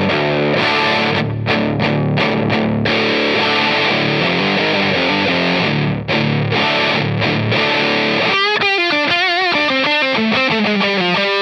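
Electric guitar played through an overdrive pedal, giving a distorted tone: a chugging chord riff broken by a few short stops, then a single-note lead line with bends and vibrato from about eight seconds in.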